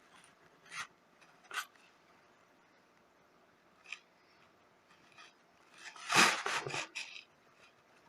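Hand sewing: thread being pulled through fabric and cloth being handled, heard as a few short scratchy rustles and then a longer, louder patch of rubbing and rustling about six seconds in.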